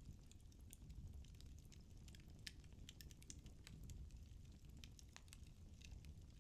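Firewood burning in a fireplace, crackling faintly: irregular sharp snaps and pops over a low, steady rumble.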